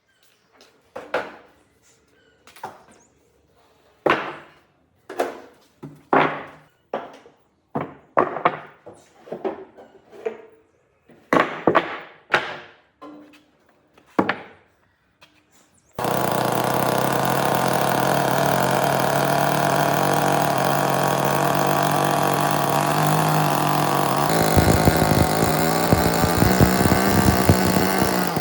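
A series of sharp knocks, roughly one a second and unevenly spaced, like strikes on wood. About sixteen seconds in, a motor-driven power tool starts abruptly and runs steadily. Near the end its sound turns rougher and its pitch lifts slightly, as it starts working the wood.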